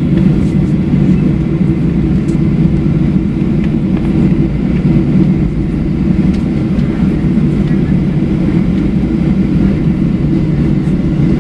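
Steady low cabin rumble of a Boeing 737-700 taxiing on the ground, its CFM56-7B engines at taxi power.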